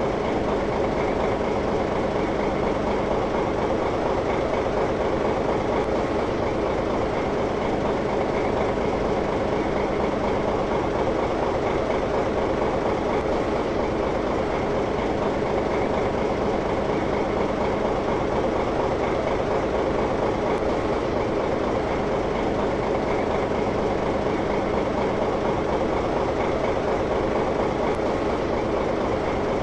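A motor running steadily: a constant mechanical drone with a steady hum, unchanging in pitch and level.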